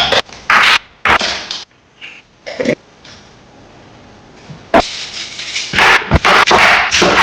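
Kitchen handling noises from meal prep: a string of short, irregular knocks, clatters and scrapes, with brief pauses between them.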